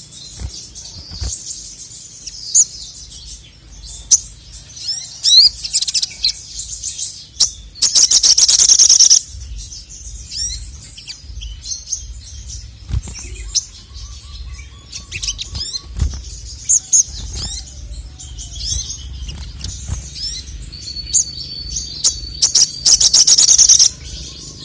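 Male ruby-cheeked sunbird (sogok ontong) singing: a string of quick, high chirps and short sweeping notes, broken twice by loud, dense bursts of rapid trilling lasting about a second each, near 8 s and again near 23 s.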